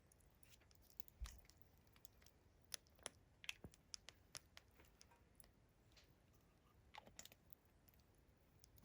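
A wood campfire burned down to embers, crackling faintly: irregular, scattered small clicks and ticks over near silence.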